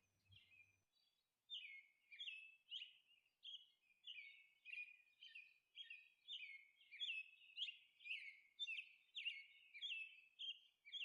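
Faint bird chirping: a steady string of short, falling chirps, about one or two a second.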